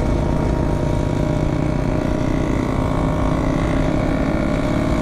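Yamaha RX-King's 135cc single-cylinder two-stroke engine running under way at a steady cruising speed, its pitch holding nearly level.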